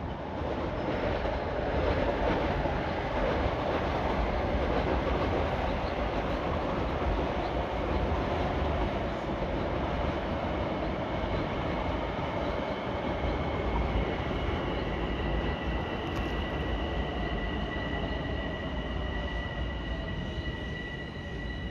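Long Island Rail Road electric multiple-unit commuter train passing close by: a steady rumble and rush of wheels on rail that builds about a second and a half in, with a steady high whine coming in over the second half.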